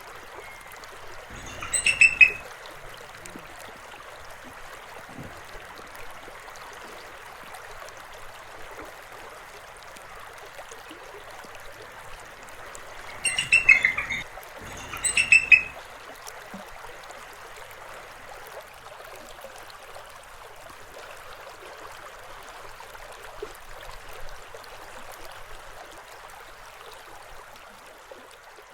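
River water flowing steadily, broken by three short, loud rattling bursts: one about two seconds in and two close together around the middle.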